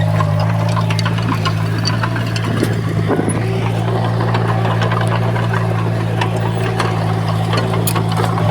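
Diesel engine of heavy earthmoving equipment running at a steady speed, with scattered clicks and rattles over it and a brief wavering about three seconds in.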